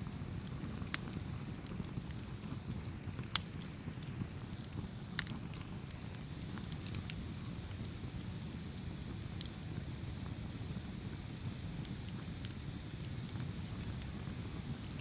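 Campfire burning with a steady low rumble and scattered sharp crackles and pops, one louder pop about three seconds in.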